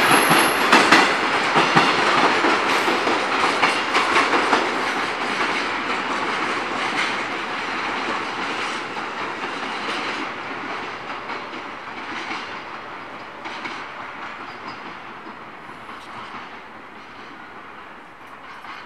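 Wheels of a departing freight train's container flatcars clattering over the rail joints in a clickety-clack rhythm as the last wagons pass and move away, the clatter fading steadily.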